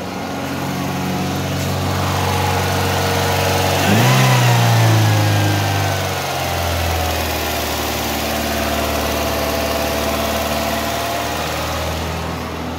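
Toyota Vios engine running with its idle a little high. About four seconds in, the engine speed jumps up and then sinks back over a couple of seconds before settling into a steady idle. The mechanic suspects a dirty throttle after the car stood unused for a long time.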